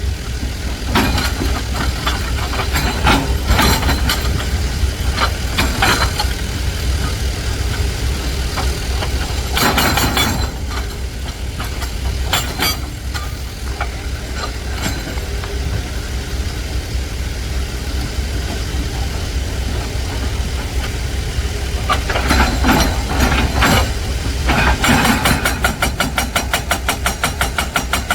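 Heavy dump truck's diesel engine running with a steady low rumble. It throbs with a rapid even pulse at the start and again over the last few seconds, with several short louder bursts in between.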